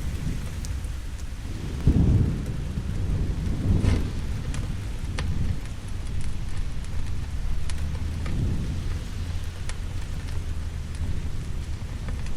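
Steady rain with low thunder rumbling in swells, the strongest about two and four seconds in. Sharp, scattered crackles of a burning fire run through it.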